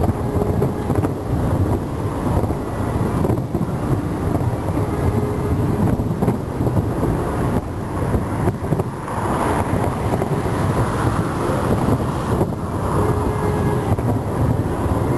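Fireworks shells bursting in a dense, continuous barrage, the overlapping bangs merging into a steady low rumble.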